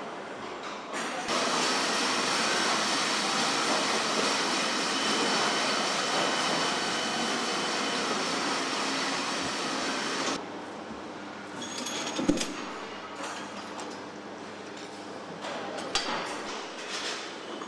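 Truck assembly-plant floor noise: a steady, loud mechanical din. About ten seconds in it cuts to a quieter background hum with scattered clanks and knocks, one sharp knock standing out.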